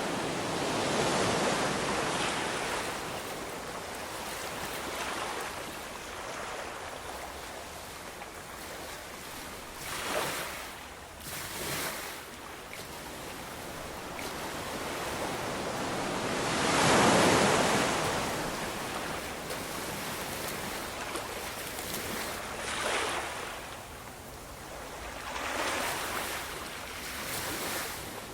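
Ocean surf: waves breaking and washing in, swelling and fading irregularly, with one wave much louder than the rest a little past halfway.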